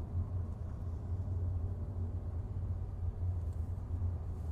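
Steady low rumble of a car's engine and road noise, with no crash or other sudden sound.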